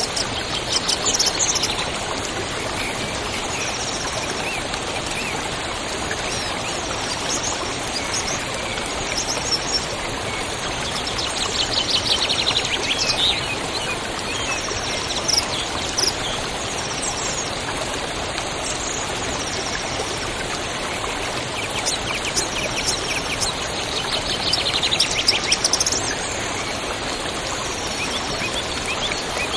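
A river or stream running steadily, with songbirds calling over it: short high chirps throughout and a rapid trill three times, about a second in, midway and near the end.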